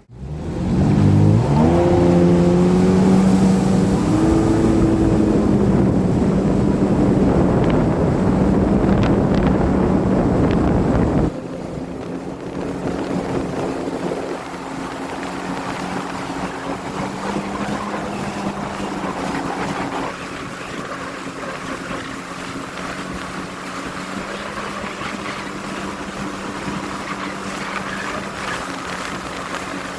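Watercraft engine accelerating, its pitch rising over the first couple of seconds, then running fast and steady with wind and water noise. About eleven seconds in the sound drops suddenly to a quieter, steady engine drone.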